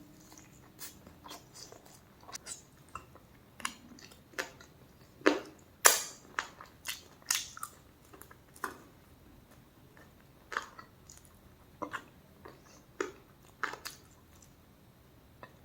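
Close-miked eating: irregular chewing with short, sharp crunching bites every second or so, the loudest two about five to six seconds in.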